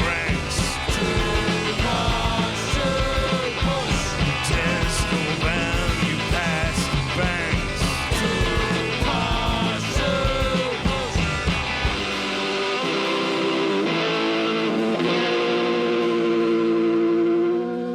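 Post-punk rock band playing loudly, with a sung vocal over drums, bass and guitar. About two-thirds of the way through, the drums and bass stop and a held guitar chord rings on as the song ends.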